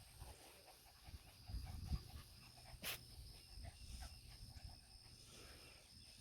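Quiet field sound: faint animal noises with light ticking at about four a second, a single sharp click about three seconds in, and a steady high insect drone.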